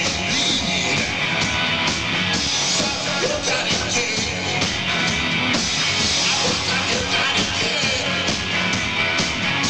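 Rock band playing live: a loud, steady full-band passage.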